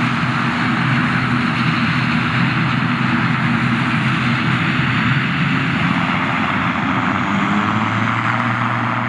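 Airliner's engines at takeoff power, a loud steady drone with a low hum; about eight seconds in a lower hum grows stronger.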